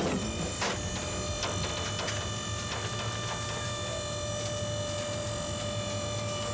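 A steady machine hum with a constant high whine, with a few light clicks in the first couple of seconds.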